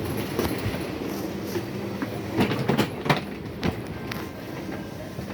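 Passenger train noise: a steady rumble with irregular clicks and knocks.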